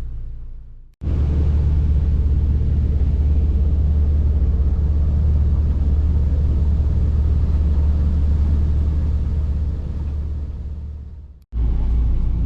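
Boat motor running steadily under way, a low even rumble. It fades out and drops away briefly about a second in, then again near the end, and comes back each time.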